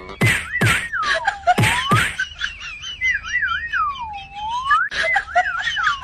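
A whistled phrase: a high wavering note that swoops down and back up, repeated about every two seconds, with sharp clicks between.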